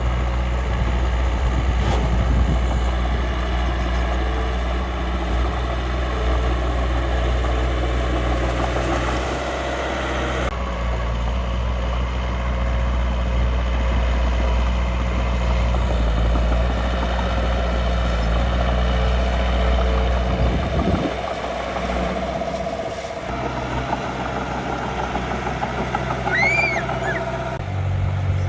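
Miniature remote-control construction machines running with a steady mechanical hum, the sound changing abruptly a few times.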